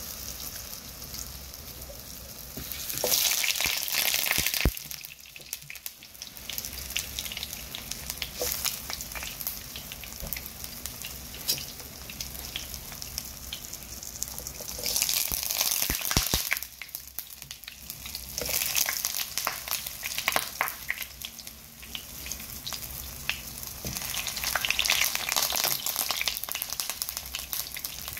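Samosas shallow-frying in hot oil in a frying pan: a steady sizzle that flares louder three times, as more raw samosas are laid into the oil. A couple of sharp clicks.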